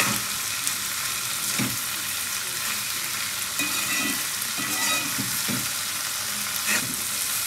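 Bean sprouts and dried smoked catfish sizzling in a cast-iron wok over a gas flame, stirred with a metal spoon that scrapes and clicks against the pan now and then.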